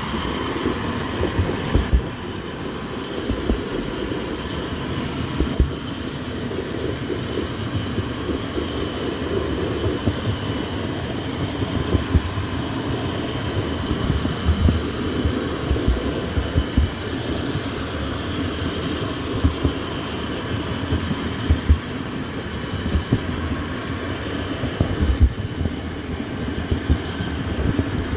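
Moving train: a steady rumble of wheels running on rails, with irregular low thumps.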